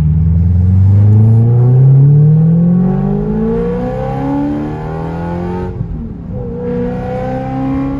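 BMW E92 M3's 4.0-litre V8, running with its mufflers removed and the exhaust open behind the resonators, accelerating hard with a loud, rising exhaust note. Its pitch dips sharply about six seconds in, then climbs again.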